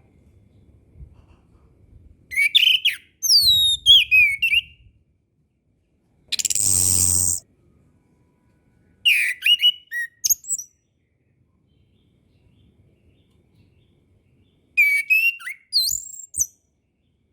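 Chestnut-capped thrush (anis kembang) singing: three phrases of clear whistled notes with falling glides, several seconds apart. Between the first two phrases comes a harsh buzzing burst of about a second.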